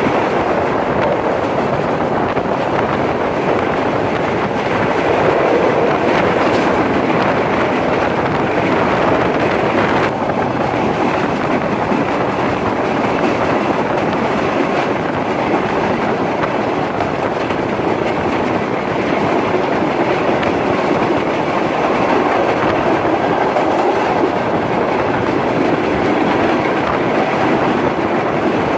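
Sri Lankan express passenger train running along the line: a steady, loud rumble of wheels on rails with the rattle of the carriages.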